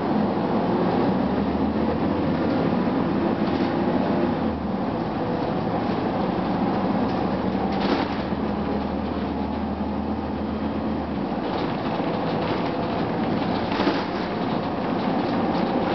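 Gillig Phantom transit bus's Cummins ISM diesel running, heard from inside the bus as a dense steady rumble with the HVAC on. A low hum sits under it and drops away about 11 seconds in, and a few light rattles come through.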